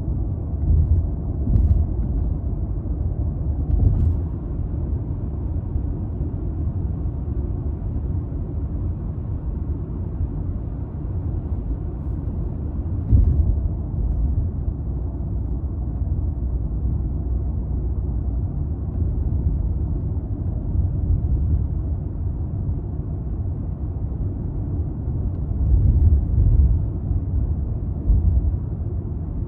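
Early 200-series Toyota Crown Athlete with its 2.5 L V6 driving along: a steady low rumble of engine and road noise, broken by several short thumps.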